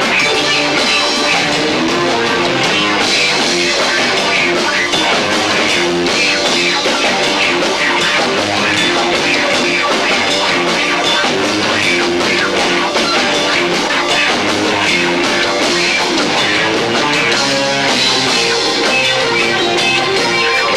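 A live rock band playing loud and dense, with electric guitar, bass and two drum kits, picked up by a camcorder's built-in microphone, so the sound is low-fidelity.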